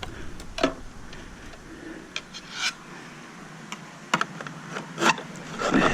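A few scattered light clicks and knocks, about half a dozen spread over several seconds, as the parts of a metal equipment enclosure are handled.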